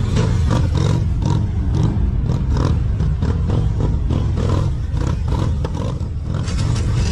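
Motorcycle engine running with a steady, rough low rumble as the bike is ridden.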